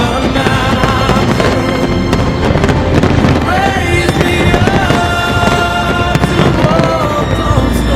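Fireworks bursting and crackling without a break, over loud background music with long held melody notes.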